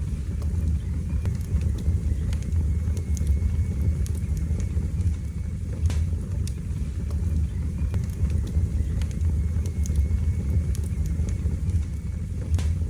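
Wood fire burning in a fireplace: a steady low rumble from the flames with scattered sharp crackles and pops, a few of them standing out, one near the end.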